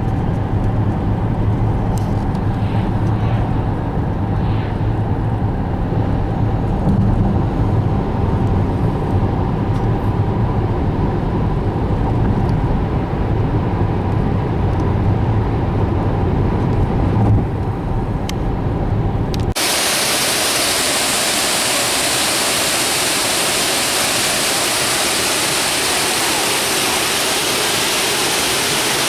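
Steady road noise and engine drone inside a moving car. About two-thirds of the way through it cuts suddenly to the steady rush of a waterfall.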